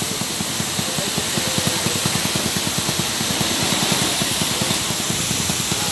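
Motorbike engine idling with an even, rapid beat while water is sprayed over it with a steady hiss. The mechanic is wetting the engine to find where water gets in and makes it stall.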